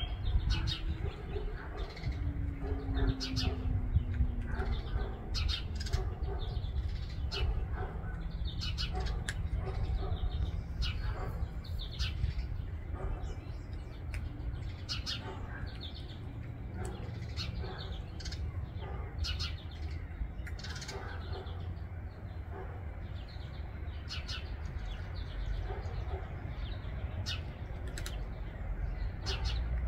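Birds chirping in short, irregular calls over a steady low rumble.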